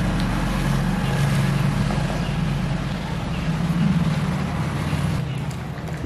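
A steady low mechanical hum, like a motor running, over a constant noisy background.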